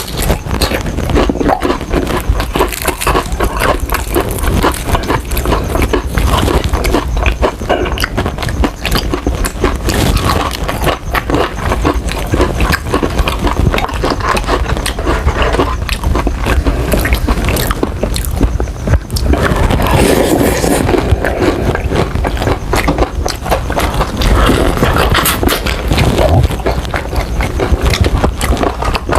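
Close-miked eating: dense, irregular crunching and wet chewing as crispy Jollibee fried chicken is bitten and chewed.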